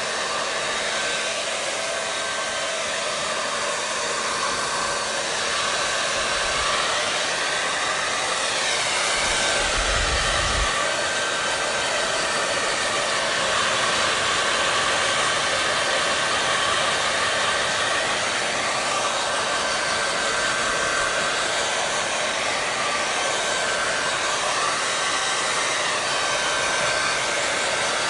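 Blow dryer running continuously: a steady rushing hiss of air with a faint steady motor whine, its tone slowly wavering up and down. Two brief low rumbles come in about six and ten seconds in.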